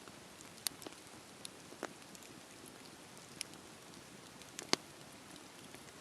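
Wood fire crackling: a soft steady hiss with irregular sharp pops, the loudest a little before the end.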